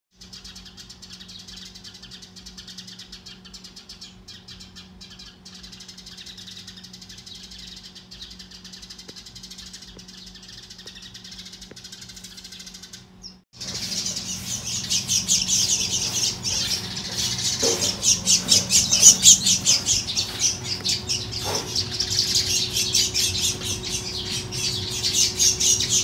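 Small birds giving rapid, repeated high chirps: scolding calls as they mob a cat. The chirping is faint at first and turns suddenly much louder and denser about halfway through.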